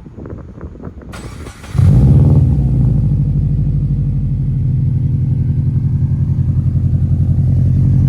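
Subaru turbocharged flat-four engine cold-started. The starter cranks for about a second and a half, then the engine catches about 1.7 s in and settles into a loud, steady idle.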